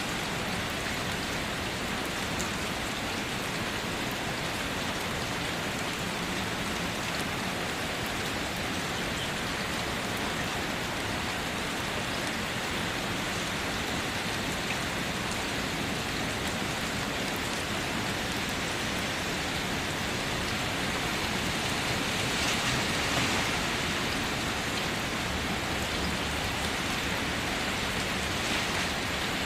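Steady rain falling, blended with the rushing water of a waterfall: a dense, even hiss that swells a little about three-quarters of the way through.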